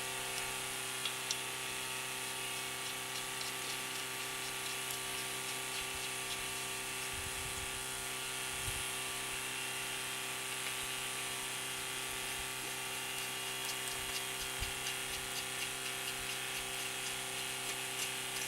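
A steady electrical hum runs throughout, with faint light clicks and taps scattered over it.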